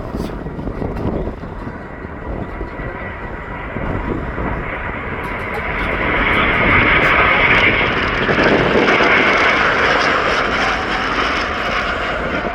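Airliner's jet engines passing, the noise building over a few seconds, loudest around the middle, then easing slightly toward the end.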